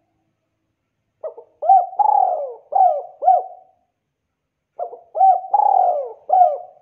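Spotted dove cooing: two phrases of its rhythmic call, each a short lead-in note followed by several rising-and-falling coos, the first about a second in and the second starting near the end.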